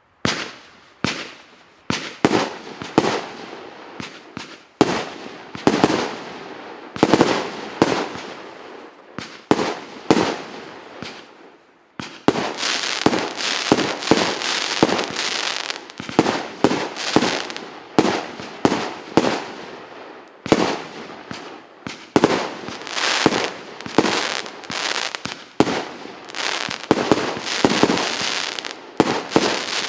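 1.25-inch, 48-shot fireworks cake battery (R7906 Platina) firing shot after shot, each a sharp bang trailed by crackling. From about twelve seconds in the shots come faster and the crackling runs on almost without a break.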